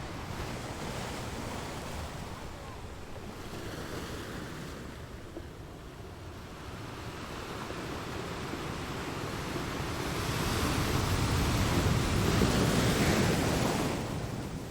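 Ocean surf: waves washing in, with a quieter lull and then a wave building to a loud crash in the second half that falls away near the end.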